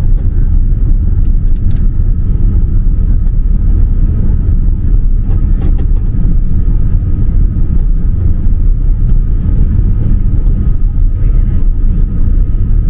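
Steady low rumble of a Boeing 787-9's engines and airflow inside the passenger cabin on approach, with a faint steady high tone.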